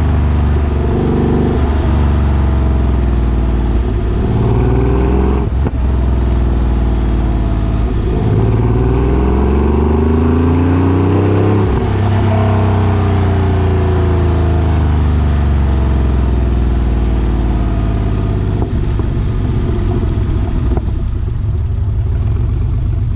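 Porsche 964's air-cooled flat-six running through its new exhaust, the revs climbing and falling several times as the car accelerates and changes gear, then settling to steadier running near the end.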